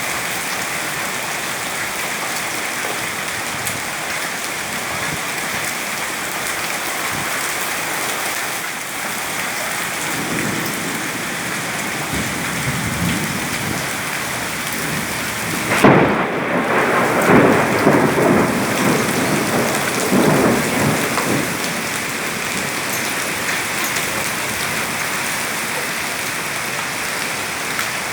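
Heavy rain pouring steadily. About ten seconds in, a low thunder rumble builds; a sharp thunderclap breaks a little past halfway and rumbles on for several seconds before the rain alone is left.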